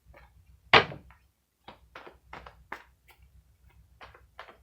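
Tarot cards being handled on a table: a run of short, light snaps and taps, about two or three a second, with one louder thump about a second in.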